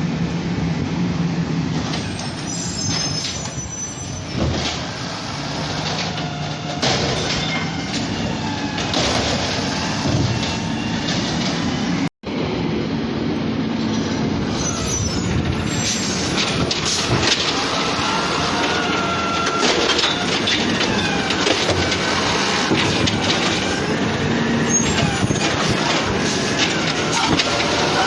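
Garbage truck at work: diesel engine running under steady mechanical noise, with high squeals and whines rising and falling over it. The sound cuts out abruptly for a moment about twelve seconds in.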